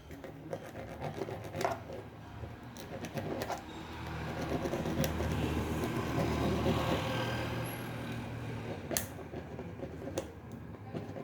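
A small electric motor running with a steady hum for a few seconds in the middle, among scattered clicks and knocks of metal parts being handled.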